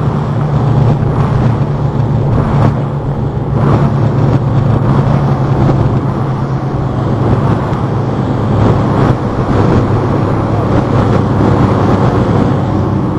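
Boat engine running steadily under way, a constant low drone with a rushing noise over it.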